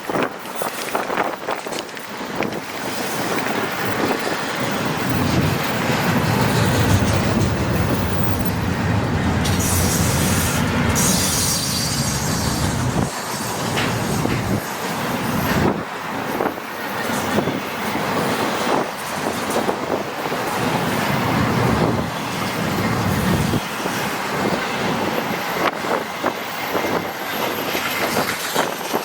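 Intermodal freight train rolling past, its cars' wheels clicking steadily over the rails with some wheel squeal. A heavy low rumble swells twice, about five seconds in and again past the halfway point.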